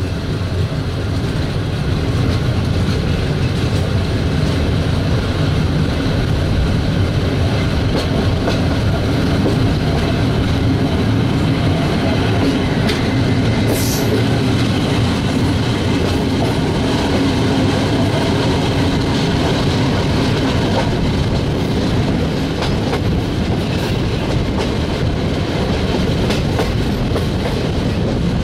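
Passenger train coach rolling along the track, heard from the train itself: a steady rumble of wheels on rail with faint clicking over rail joints, and a brief high hiss about halfway through.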